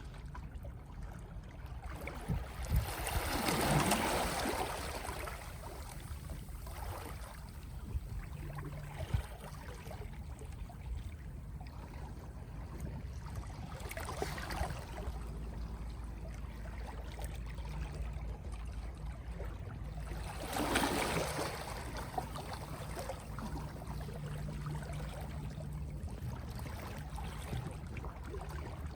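Small, soft sea waves washing in and drawing back, with a steady low rumble of the sea underneath. Three bigger washes swell up and fade, about three seconds in, around the middle and about two-thirds of the way through, with a few short knocks of water lapping.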